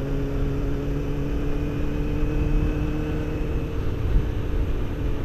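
Motorcycle engine running steadily at low speed, its hum fading somewhat partway through, over a low, uneven rumble of wind on the microphone.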